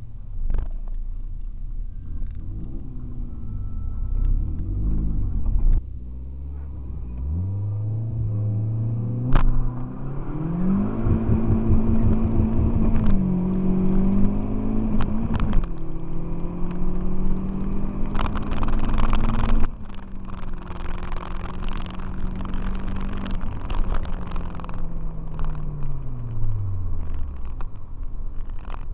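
Car engine heard from inside the cabin, accelerating hard through the gears. The engine note climbs, dips at each of several upshifts, and near the end falls steadily as the car slows.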